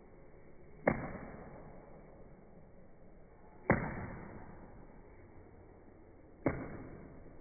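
Three sharp thuds, evenly spaced about three seconds apart, each fading out over about a second.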